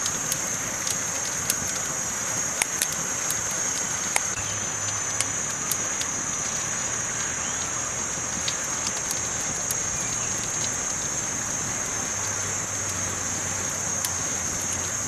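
Campfire crackling: wood fire burning with a steady hiss and scattered sharp pops, the loudest about one and a half, two and a half and four seconds in.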